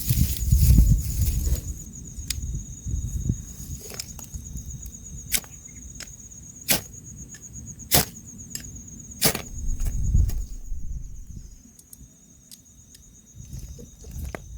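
An insect keeps up a steady, high trill. Low thuds and rustling come in the first two seconds, then four sharp cracks or snaps, each a second or so apart, in the middle.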